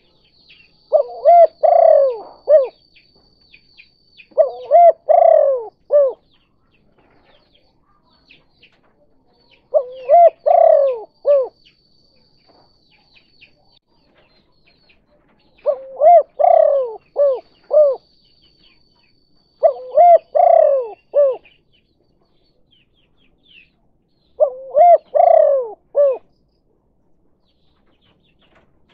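Spotted dove (tekukur/derkuku) cooing in the 'kuk 2' call type: six phrases of several notes each, repeated every four to five seconds. Faint chirps of small birds are heard between the phrases.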